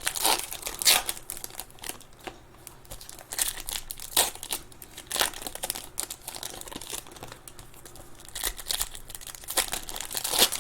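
Plastic trading-card pack wrappers crinkling and tearing as card packs are opened, in short irregular rustles.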